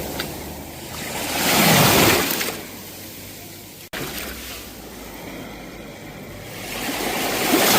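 Sea waves washing in to shore, two surges swelling up and falling back, the first about two seconds in and the second near the end. There is a sudden brief cut in the sound about four seconds in.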